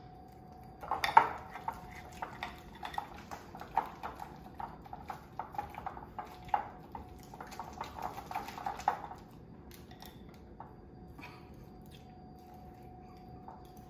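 Kitchen utensils and a bowl clinking and clattering in a quick, uneven run of clicks that stops about nine seconds in, over a faint steady hum.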